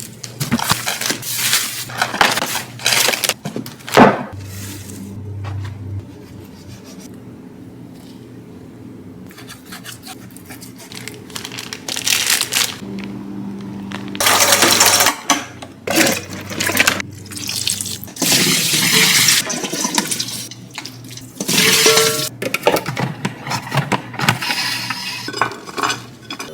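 Kitchen prep and storing sounds: running water as produce is washed, and containers and packaging being handled and set down, with a sharp knock about four seconds in.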